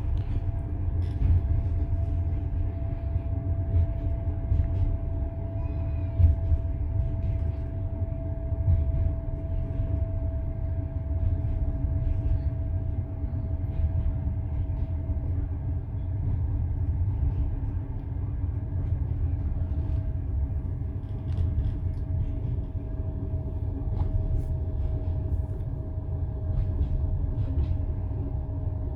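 Passenger train rolling along, heard from inside a carriage: a steady low rumble with the knock of the wheels on the rails, small scattered clicks and a faint steady whine that sinks slightly in pitch.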